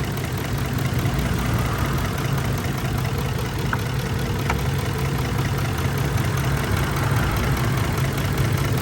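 Ford 5.4-litre V8 engine of a 2004 F-150 idling steadily. Two faint clicks come about halfway through.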